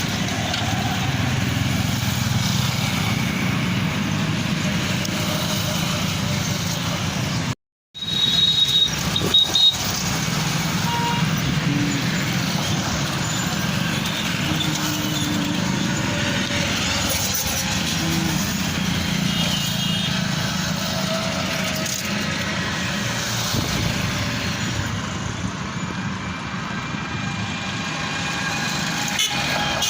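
Steady road traffic: the mixed noise of trucks and other vehicles passing, with a few short high tones over it. The sound cuts out completely for a moment about a quarter of the way in.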